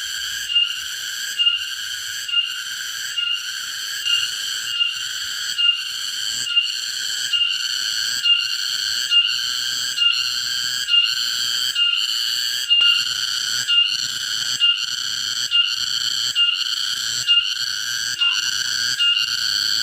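An insect calling with a continuous high, whistle-like tone that swells in short pulses a little more than once a second.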